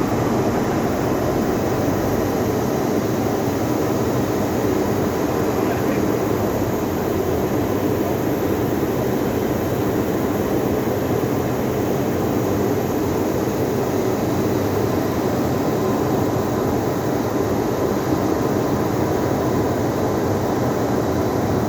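Steam boiler plant running: a steady, unbroken mechanical noise with a faint steady tone in it, holding at an even level throughout.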